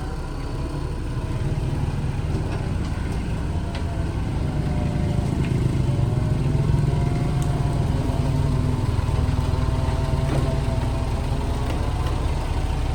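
A large engine running steadily with a low drone, its pitch drifting slightly up and down.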